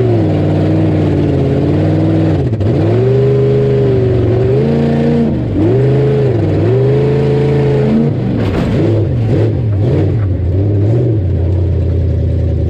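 Ford Bronco rough truck's engine revving hard, its pitch rising and falling several times as the throttle is worked, with short dips about two and a half, five and eight seconds in.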